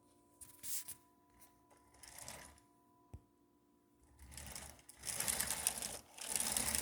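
Lego locomotive running along plastic track, a fast mechanical clatter of wheels and gears. It starts about four seconds in and grows loud in surges, after a single click.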